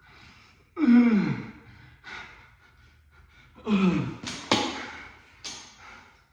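A man groaning twice from exertion, each groan sliding down in pitch, with hard breaths between. A sharp knock comes just after the second groan.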